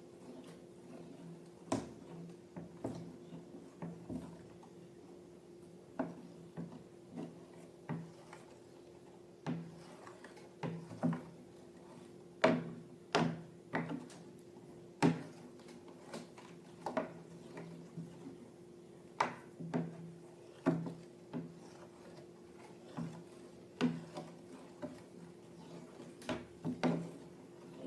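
Hand-handling sounds from slime making: irregular sharp clicks and taps, one or two a second and uneven in strength, over a steady low hum.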